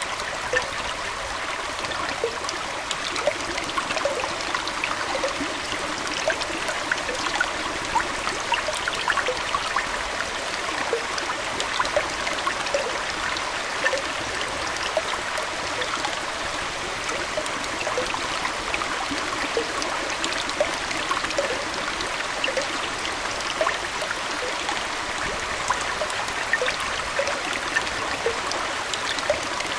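Aquarium water flowing and trickling steadily, with many small bubbling plinks scattered through it.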